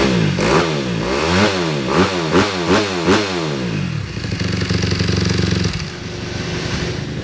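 Motocross bike engine revved in quick throttle blips, the pitch rising and falling about twice a second for the first four seconds, then settling to a steady, lower running for the rest.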